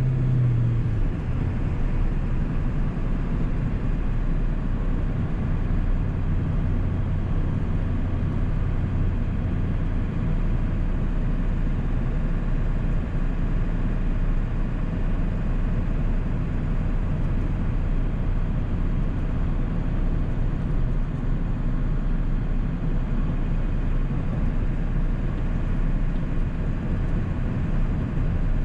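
1997 Ford 7.3 L Powerstroke turbo-diesel V8 running while driving, a steady low rumble with road noise. The engine's hum drops in pitch about a second in, then holds steady.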